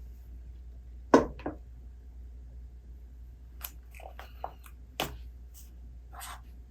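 Small handling sounds at a reading desk over a low steady room hum. A sharp knock about a second in is the loudest, another comes about five seconds in, and soft clicks, brief squeaks and a rustle fall between.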